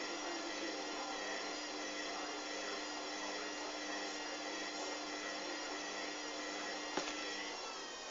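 Hoover washing machine's motor whining steadily at speed as the drum spins. There is a single click about seven seconds in, and the low hum underneath drops out shortly after.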